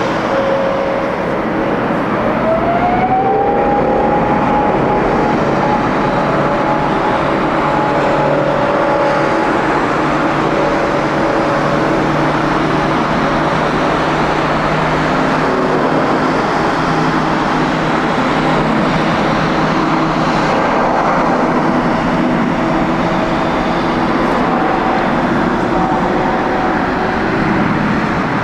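Jet airliner engines running loud and steady, with a whine that rises in pitch a couple of seconds in and then holds, over a constant roar.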